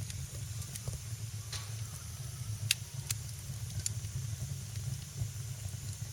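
Wood fire in a fireplace crackling, with scattered sharp pops over a steady low rumble and hiss, the loudest pop a little under halfway through.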